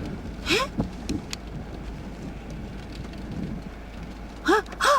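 Steady rain and wind noise from the typhoon. Brief voice sounds come about half a second in and again near the end.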